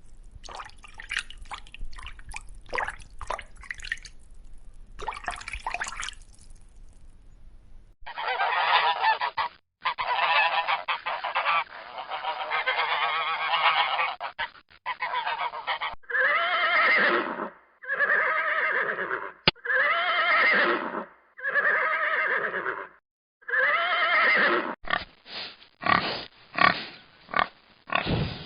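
Goose honking: a dense run of overlapping calls, then a string of separate drawn-out honks about a second each, then quick short honks near the end. Before the honking, for the first six seconds or so, a fainter, different sound of sharp scattered clicks.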